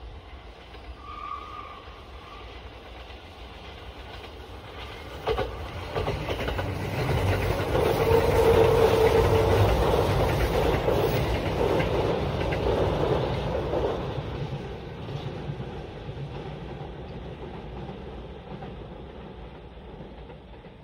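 Train running on rails, its wheels clattering over the track. It grows louder from about five seconds in, starting with a sharp click, is loudest around the middle, then fades away.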